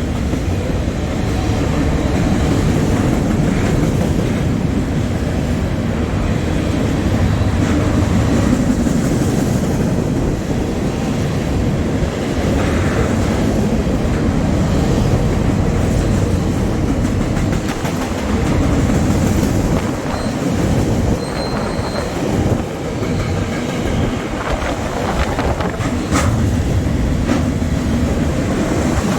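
A long freight train rolling past, a steady rumble of its cars going by.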